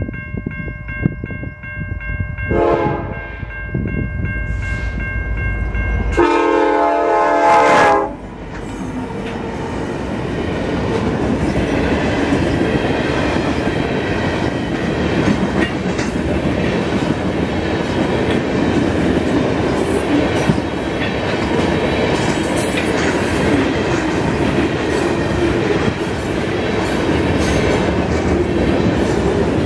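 Freight train horn on a CN SD70M-2 locomotive sounding its crossing signal. It gives a few blasts, the last loud and about two seconds long, ending about eight seconds in. It is followed by the steady rumble and clickety-clack of loaded tank cars and bulkhead flatcars rolling past.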